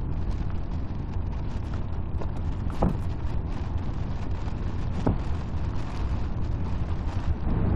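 Thunderstorm: a steady low rumble with rain hiss and wind on the microphone, broken by a few short sharp ticks.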